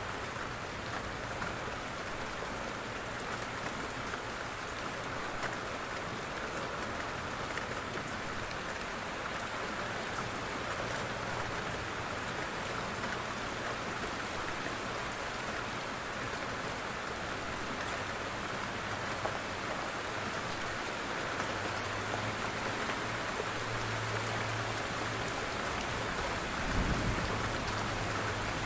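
Steady heavy rain falling, with a low rumble of thunder late on and a brief swell of it near the end.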